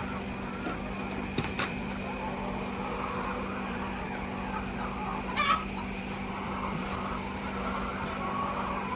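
Chickens clucking over a steady background hum, with two sharp clicks about a second and a half in and a brief louder call about five and a half seconds in.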